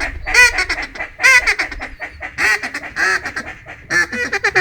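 A loud, rapid series of duck quacks, short calls packed closely one after another, stopping just before the end.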